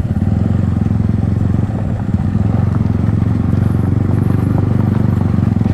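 Yamaha MT-15's single-cylinder engine running through an Akrapovic aftermarket exhaust, a loud, even, fast throb held at a steady note.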